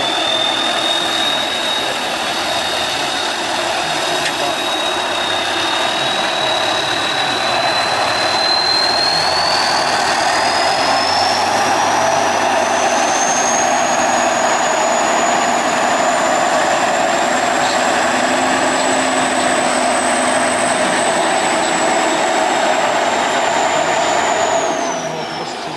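Tatra 815 6x6 trial truck's diesel engine working hard under load, a dense steady din with a high whine that climbs slowly, holds, then drops away a second before the end as the engine eases off.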